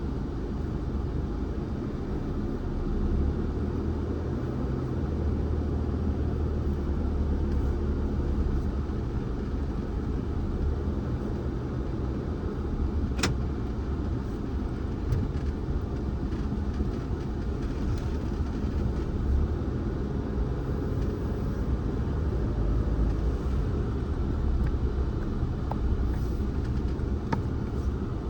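Steady low rumble of a car driving along a road, with a sharp click about halfway through and a couple of fainter ticks near the end.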